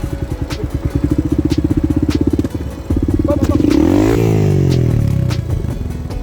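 Single-cylinder four-stroke trail motorcycle engine chugging at low revs with an even pulse, then revving up and dropping back about four seconds in. A few sharp clicks and knocks come through over the engine.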